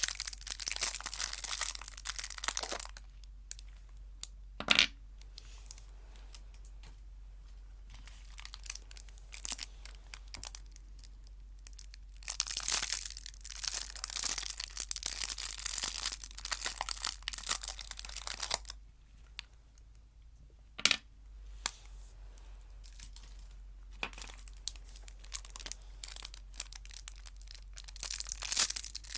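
Chocolate wrappers crinkling and tearing close to the microphone, in several bouts of a few seconds each, with a sharp tap about five seconds in and another about twenty-one seconds in.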